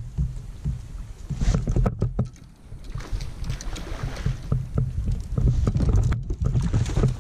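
Knocks, bumps and handling noises on a fishing kayak, coming irregularly over a noisy background.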